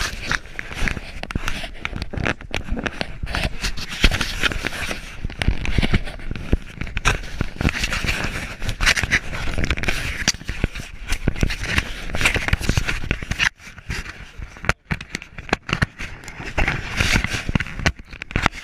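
Steady crackling, scraping and knocking of a body-mounted GoPro jostling on a running dog's back, dense irregular clicks over a rough rushing noise, with a brief lull about fourteen seconds in.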